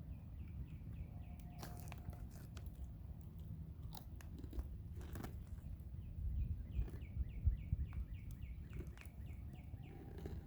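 Bonfire crackling and popping, with scattered sharp snaps over a low steady rumble. A run of short, evenly repeated chirps is heard briefly at the start and again for a few seconds past the middle.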